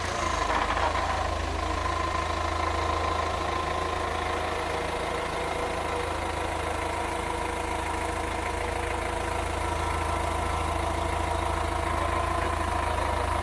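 Forklift engine idling steadily, with a constant low hum and a thin steady whine over it.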